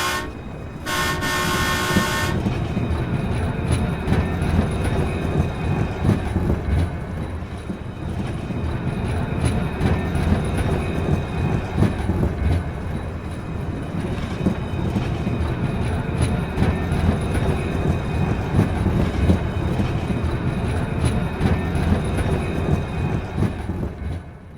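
A train horn sounds briefly about a second in, then a train rolls along with a steady low rumble and rapid clickety-clack of wheels on rail joints, dropping away at the very end.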